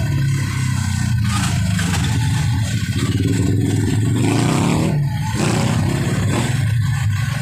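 Engines of a pickup truck and cars in a slow convoy running close by, with a steady low rumble. An engine note rises about three to five seconds in as a vehicle pulls forward.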